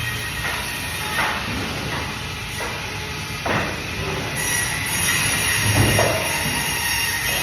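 Band saw running steadily while cutting fish, with a few sudden louder cutting or knocking sounds about a second in, midway and near the end.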